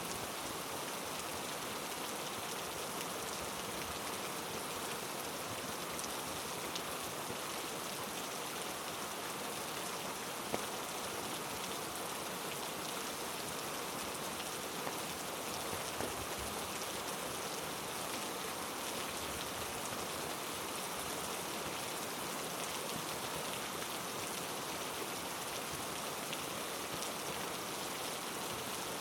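Heavy rain falling steadily, with a few single louder drops ticking now and then.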